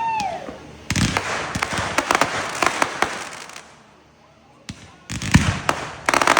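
Consumer fireworks going off: a bang about a second in, followed by a few seconds of dense crackling with sharp pops. After a short lull, more bangs and another stretch of crackling follow near the end.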